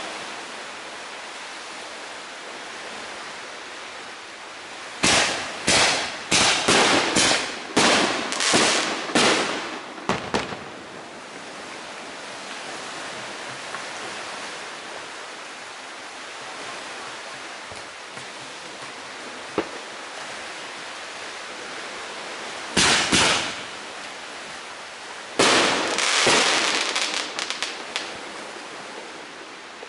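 Fireworks going off: a rapid string of sharp bangs about five seconds in, two more close together a little past twenty seconds, then a dense run of quick cracks near the end, with a steady hiss in between.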